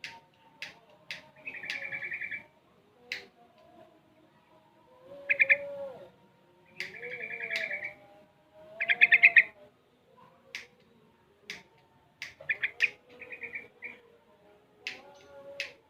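Young sooty-headed bulbul (trucukan), about six months old and still learning its song, singing. It gives short rattling chirpy phrases repeated several times, with sharp ticking notes in between.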